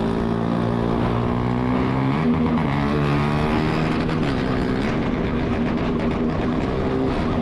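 Motorcycle engine running hard at speed during a pursuit, its pitch dipping and climbing back a couple of times as the throttle and gears change.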